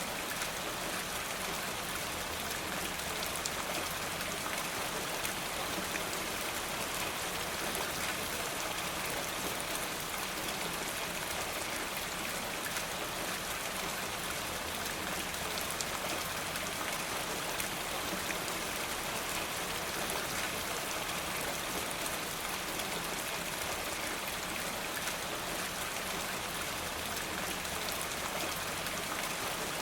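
Steady rain falling, an even hiss dotted with many small sharp drop ticks.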